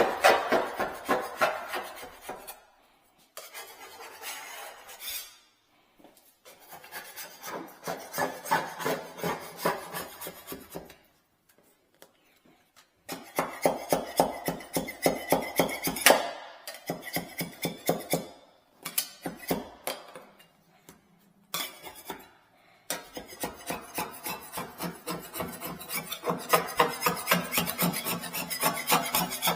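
Old glue being scraped off the countertop by hand: fast back-and-forth scraping strokes, about five a second, in bouts of a few seconds with short pauses between them.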